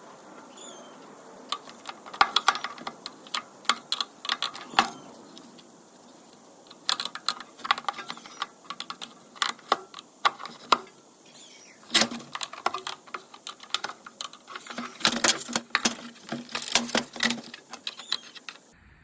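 Irregular clicking and knocking of plastic as the Stihl BR600 blower's housing is pried and worked apart, the clicks coming in clusters with short pauses between.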